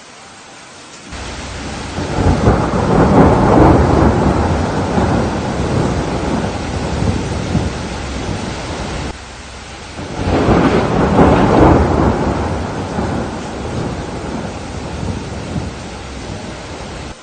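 Steady rain with two long rolls of thunder, the first building about a second in and the second about ten seconds in, each rumbling loudly and then dying away; the first cuts off abruptly.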